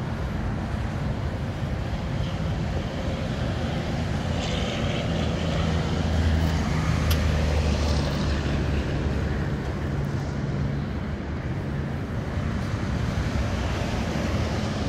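Steady low drone of a car engine idling, mixed with wind on the microphone, and a single sharp click about seven seconds in as the trunk lock is worked.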